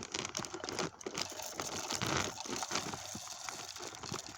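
Bird seed being poured from a bag into a hanging feeder: an uneven crackling rustle of seed and the crinkling bag.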